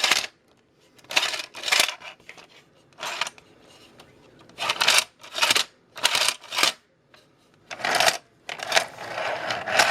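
Plastic slide mechanism of a Tyco 959 toy train tractor loader worked back and forth by hand, giving a series of short scraping, clattering strokes about one every second.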